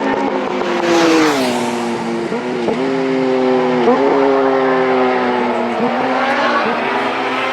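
Road-racing motorcycle engine at high revs passing at speed, its pitch falling as it goes by about a second in, then holding with several brief dips and jumps in pitch.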